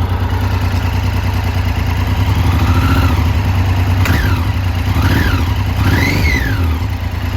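Triumph Street Triple's inline three-cylinder engine idling and blipped four times in quick succession from about three seconds in, each rev rising and falling back to idle. The bike has a running fault (不調) not yet repaired.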